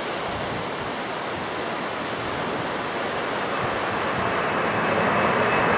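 A steady rush of strong wind, with a jet airliner's engine noise building and growing steadily louder over the second half, a thin whine coming in near the end.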